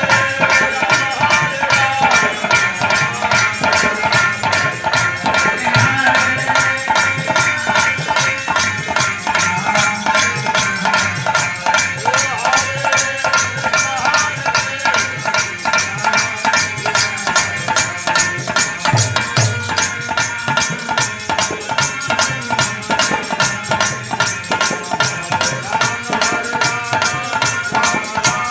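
Instrumental kirtan music without singing: a fast, steady beat on hand drums and shaker-type percussion under sustained melodic tones.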